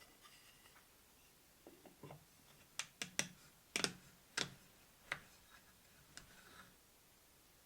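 Irregular sharp knocks and clicks, about eight over a couple of seconds near the middle, with faint scraping and handling before and after: hand tools and wood pieces being handled on a workbench.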